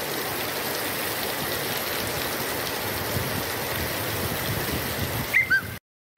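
Rain pouring down steadily, recorded on a phone, with a couple of short high chirps near the end just before it cuts off suddenly.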